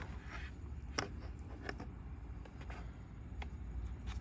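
Faint clicks and light handling noises of a small part being fitted by hand under a dashboard, a few separate clicks over a low steady hum.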